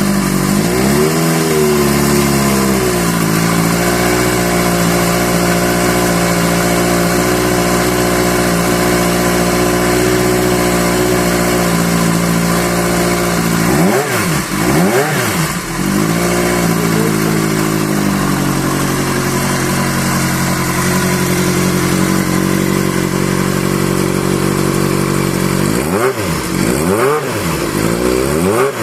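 Kawasaki Z650 air-cooled inline-four engine idling steadily. The throttle is blipped about a second in, then twice in quick succession about halfway through and a few more times near the end, and the revs rise and fall back to idle each time.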